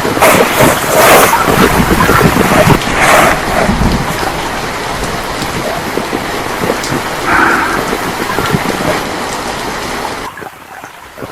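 Heavy rain pouring, in loud surges over the first few seconds and then steadier, with a low rumble of thunder about four seconds in. The sound falls away abruptly near the end.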